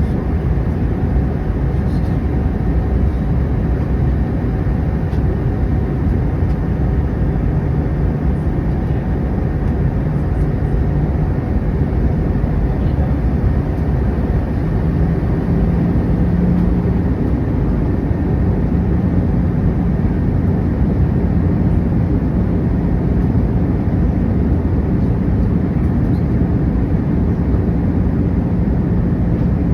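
Steady cabin noise inside an Airbus A319 in descent: a deep engine and airflow drone with a low hum that grows a little stronger about halfway through.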